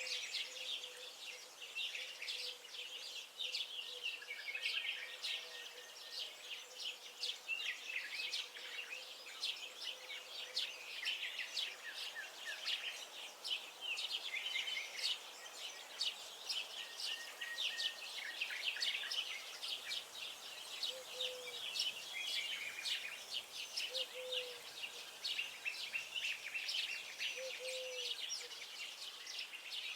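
A dense chorus of small birds chirping and singing at once, quick high notes overlapping without a break. In the second half, short low calls come about every three seconds beneath the chorus.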